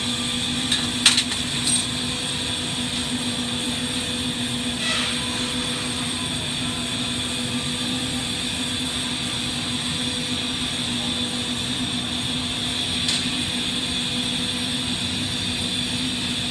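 Steady hiss of a propane-oxygen glassblowing torch burning, over a constant low hum, with a few sharp clicks about a second in.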